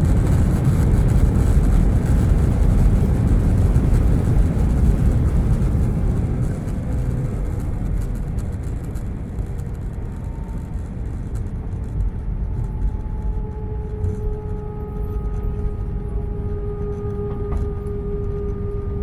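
Airbus A320 cabin noise heard from inside the cabin: a loud, steady low rumble of engines and airflow that eases off about six seconds in, after which a steady engine whine of a few held tones comes through.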